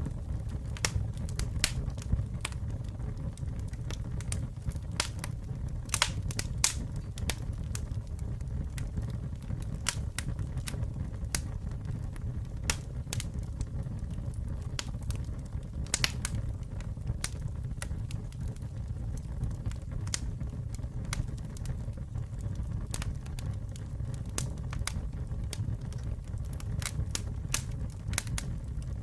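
Campfire burning, wood crackling with irregular sharp snaps and a few louder pops over a steady low rumble of the flames.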